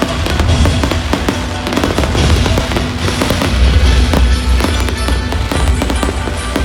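Fireworks display: a dense run of bangs and crackles over a continuous deep rumble, which grows heavier a little past halfway.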